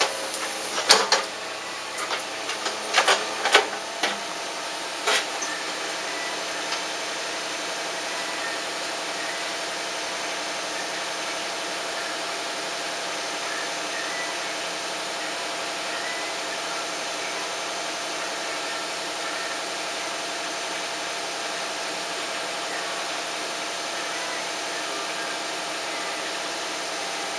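Several sharp knocks in the first few seconds, then a steady mechanical hum with one constant tone.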